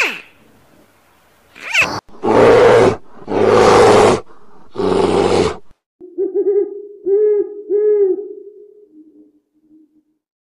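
A run of animal calls: two short falling squeals, then three loud roars, then several pitched hoots that fade out near the end.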